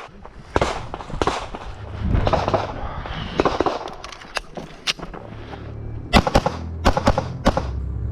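Pistol shots fired during a timed IDPA course of fire: a few single shots spaced out early on, then a fast string of shots in quick pairs near the end.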